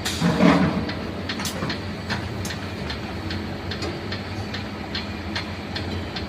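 Two-nozzle washing machine for 19-litre water jugs running: a steady motor hum with a regular tick about two to three times a second, and a louder burst of noise about half a second in.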